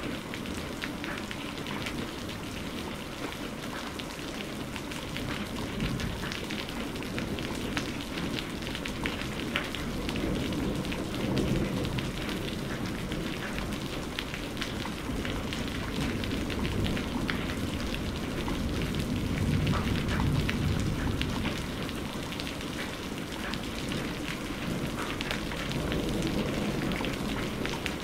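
Steady heavy rain, a dense patter of drops, with low rumbles of thunder swelling and fading a few times.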